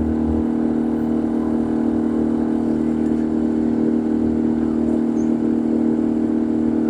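Boat engine running steadily, an even drone that holds the same pitch throughout.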